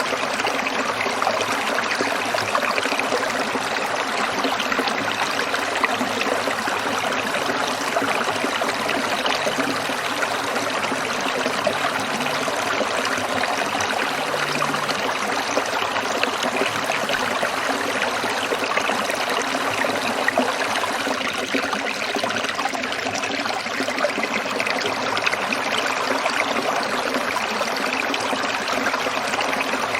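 Stream water trickling and splashing over stones, a steady, continuous rush.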